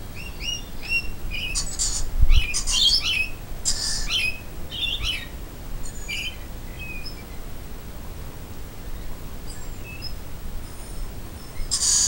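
Wild birds calling. A short run of four quick, rising chirps opens the passage, then a busier tangle of chirps follows a couple of seconds in and thins out to a few faint scattered notes. A louder call breaks in at the very end.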